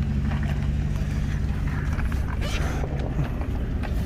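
A vehicle's engine running with a steady low hum, along with some mechanical creaking and rattling. The hum drops away a little after three seconds in.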